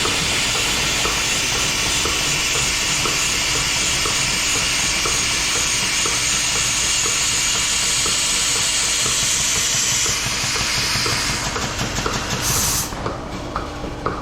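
DeLaval VMS 300 milking robot's teat-preparation cup spraying water, detergent and air onto a cow's teats: a steady hiss that turns uneven about ten seconds in. There is a brief sharper burst just before it stops near the end.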